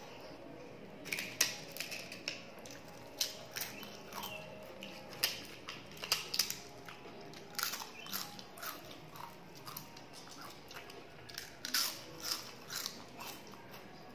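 Close-miked chewing of a mouthful of rice and curry eaten by hand: wet mouth smacks and small clicks coming irregularly, several a second.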